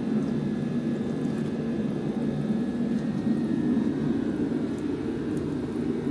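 A steady low drone of running machinery that holds even throughout.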